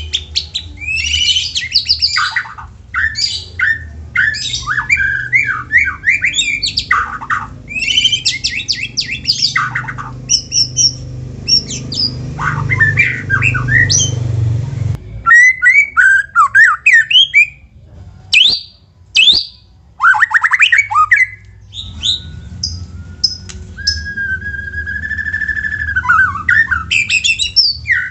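White-rumped shama singing a fast, varied song of rapid whistled and harsh notes. A low background hum cuts off suddenly about halfway, and a long drawn-out whistle comes later on.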